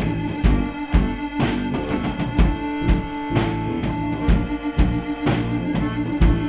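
Live gypsy rock band playing, the drum kit keeping a steady beat of about two strong hits a second under bass and long held notes.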